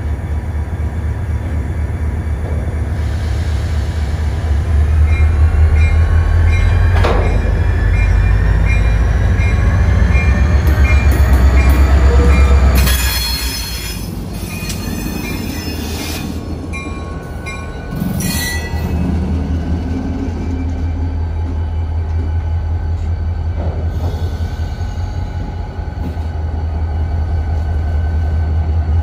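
Slow-moving freight cars rolling past, their steel wheels squealing in several gliding, rising tones over a deep rumble. A louder squeal comes about halfway through and a shorter one a few seconds later. Near the end a Florida East Coast Railway EMD four-axle diesel locomotive comes along at the rear of the cut.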